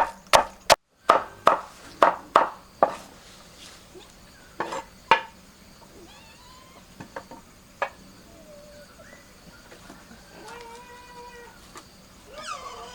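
Repeated chopping strokes, about two to three a second, for the first three seconds, then two more strokes. Later come a few drawn-out, pitched animal calls.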